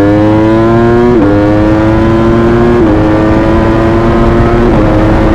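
V4 sport motorcycle engine under hard acceleration, its pitch climbing steadily through the gears. It drops sharply at three quick upshifts: about a second in, near three seconds and near five seconds.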